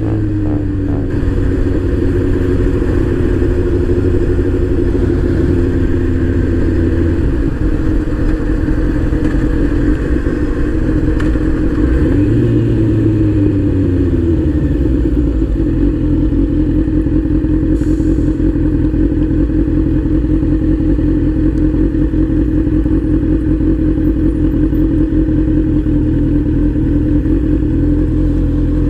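Motorcycle engine running steadily at road speed, heard from the moving bike. About twelve seconds in, the engine note swings up and then back down before it holds steady again.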